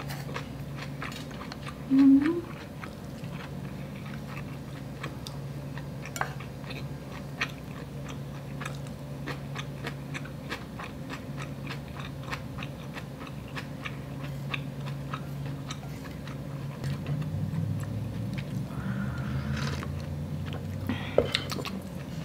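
Close-up mouth sounds of chewing a bite of inari sushi, rice in a fried tofu pouch: many small wet clicks and smacks over a steady low hum, with a brief hum of the voice about two seconds in.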